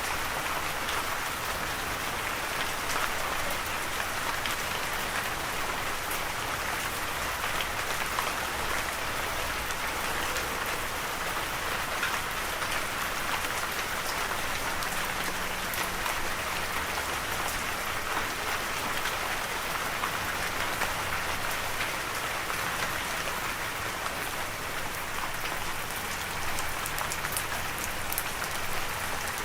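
Steady rain falling, an even hiss of many drops striking a surface, with scattered individual drop ticks.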